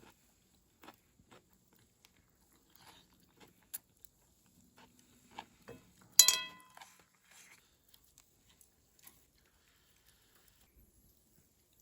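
Someone eating: scattered soft bites and chewing crunches. About six seconds in there is one loud, short sound with a ringing tone.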